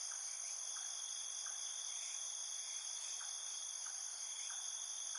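Steady, high-pitched chorus of insects, with faint short ticks repeating about every three quarters of a second.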